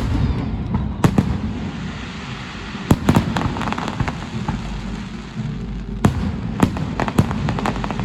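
Fireworks salute shells bursting: a string of sharp bangs every second or so, with a crackling patch about three seconds in and a low rumble underneath.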